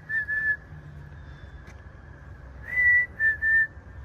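A person whistling short bird-like notes: a pair of brief notes at the start, then a higher note followed by two slightly lower ones about three seconds in.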